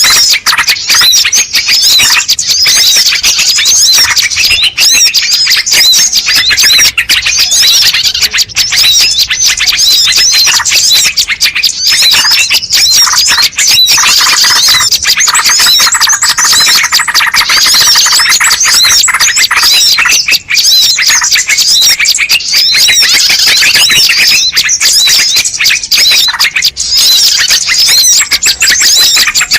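A bird-lure recording of a dense chorus of small birds chirping, whistling and squeaking over one another without a break, made to call wild birds in.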